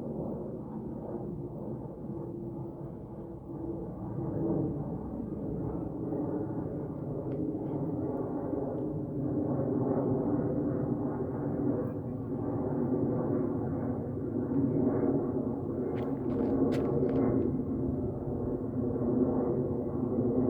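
Airplane engines droning steadily, a low hum with a few held tones that slowly grows louder, with a few brief faint clicks well into it.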